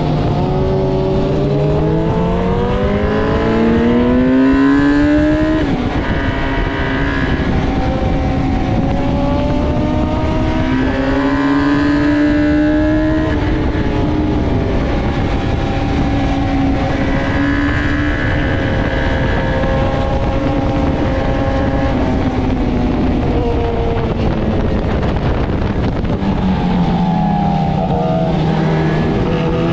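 Suzuki GSX-R750 K1's inline-four engine at track speed, heard onboard over a heavy rush of wind noise. The revs climb with a sudden drop at a gear change about six seconds in, climb again and hold steady, then fall away under braking and pick up again near the end.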